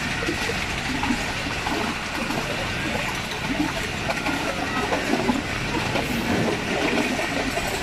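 Passenger train coach running fast on jointed track, heard at an open window: a steady rumble and rush with the wheels knocking over the rail joints.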